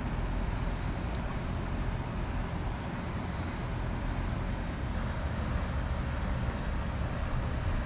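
Steady outdoor background noise dominated by a low, fluttering rumble.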